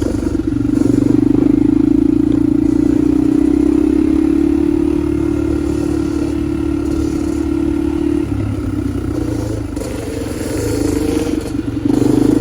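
A loud vehicle engine held at steady high revs for several seconds. It eases off about two-thirds of the way through, then comes back up to full revs near the end.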